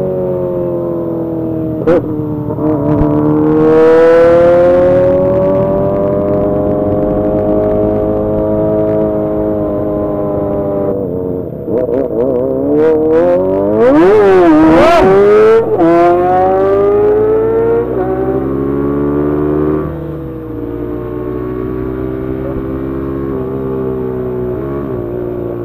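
Kawasaki ZX-25R's inline-four 250 cc engine running at high revs while riding. Its pitch rises and falls with the throttle, with a quick sharp rev up and back down about halfway through.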